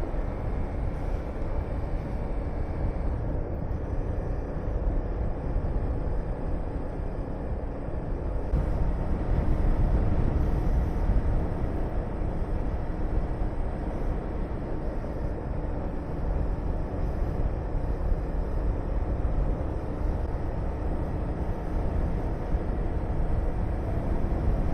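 Honda VTR250 V-twin engine running on the move, with wind rushing over the microphone; louder for a few seconds about nine seconds in.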